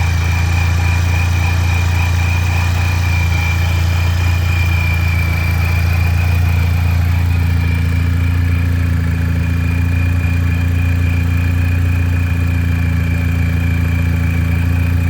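Supercharged 2004 Mini Cooper S 1.6-litre four-cylinder engine idling steadily, with a thin, steady high-pitched whine over the low engine note.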